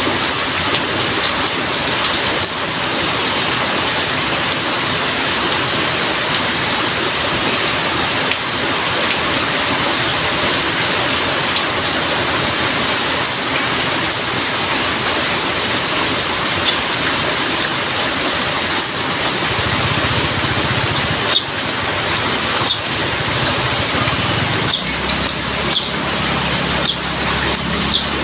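Heavy rain falling steadily, a dense even hiss. In the last third a low rumble comes in underneath, and sharp single drips start to tick out above the rain about once a second.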